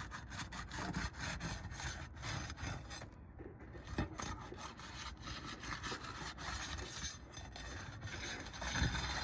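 Roof shingle being unsealed: a tool worked under the tab scrapes and rubs against the shingle, breaking its sealed edge, with irregular scraping and small clicks throughout.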